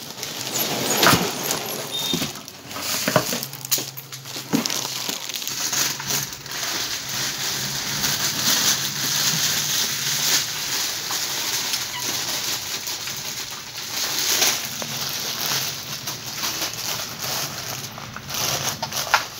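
Packaging being pulled off a boxed water heater: plastic wrap and packing material rustling and crinkling without a break, with scattered knocks and clicks.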